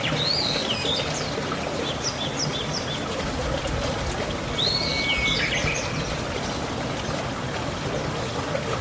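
A songbird sings two short phrases about four seconds apart, each a swooping whistle followed by a few quick repeated notes, over a steady rushing hiss.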